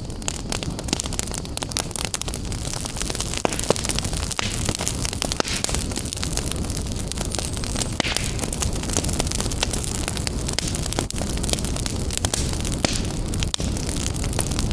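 Fire burning in a fireplace, with dense irregular crackles and pops over a steady low rumble of flame.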